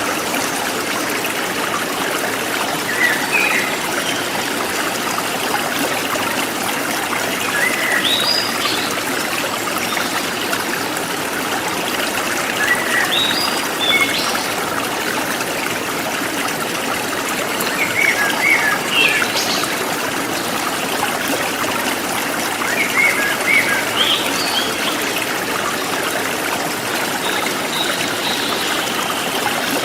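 Forest stream trickling and flowing steadily, with birds chirping over it in short rising calls every few seconds.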